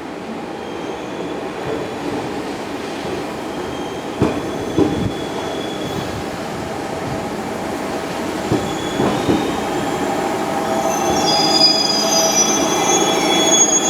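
JR 211 series electric commuter train rolling through the station: a steady rumble with pairs of clacks as the wheels cross rail joints, and high-pitched wheel squeal setting in about ten seconds in as it grows louder.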